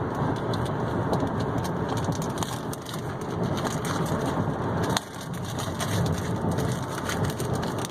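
Paper and plastic rustling and crinkling as an owner's manual packet is handled and leafed through, with a sharper knock or snap about five seconds in.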